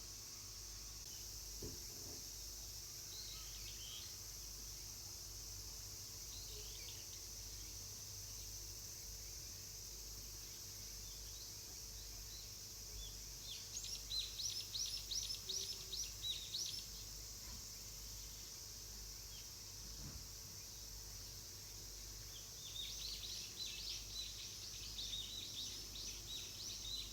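A wild bird singing high-pitched song in two bouts of rapid, quickly repeated short notes, the first about halfway through and the second near the end, over a steady high hiss.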